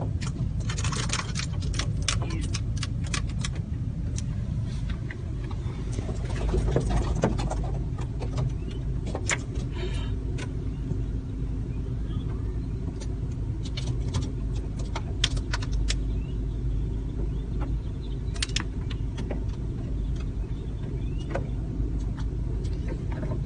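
Steady low rumble inside a car, with many short sharp clicks and squeaks from a huge flock of blackbirds swarming around and onto the car, busiest in the first few seconds.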